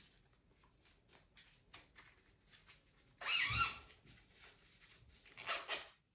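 Zipper on a washable air filter's mesh cover being pulled closed, with two louder zips, one about three seconds in and one near the end, among faint handling clicks and rustles of the plastic frame and fabric.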